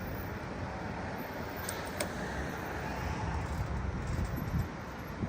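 Steady outdoor traffic noise with a low, unsteady rumble of wind on the microphone, and a faint click about two seconds in.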